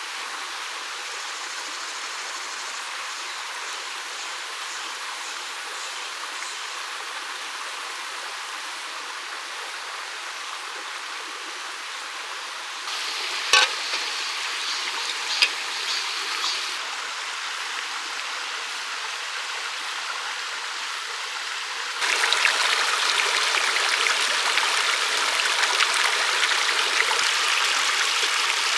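Mountain stream water flowing steadily. It gets louder in two sudden steps, about halfway through and again near the last quarter, with two sharp clicks soon after the first step.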